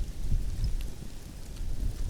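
Campfire crackling with scattered small pops, in wind and sleet. A low rumble of wind on the microphone is the loudest part, swelling a moment in and again near the end.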